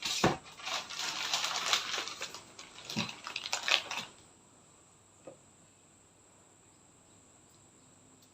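Rustling and crackling with small clicks, like packaging being handled, for about four seconds. Then near quiet, broken by one small click.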